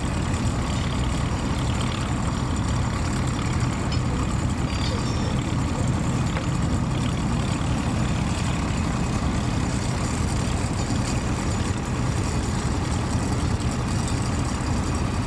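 Tractor engine running steadily with an even low hum, no change in pace.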